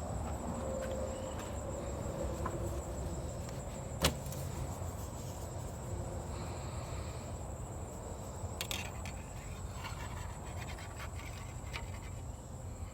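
Quiet handling sounds at an open car hood with the engine off, as the oil dipstick is pulled and read. There is one sharp click about four seconds in, over a steady low hum and a thin, high, steady drone.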